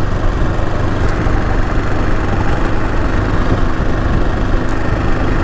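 AJP PR7 adventure motorcycle's single-cylinder engine running steadily as the bike is ridden along, a dense, even rush of engine and riding noise.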